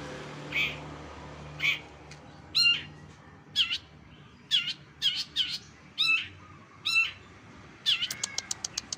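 Long-tailed shrike (cendet) singing a string of mimicked calls of other birds: loud, sharp, curving notes about once a second, then a fast chattering rattle near the end.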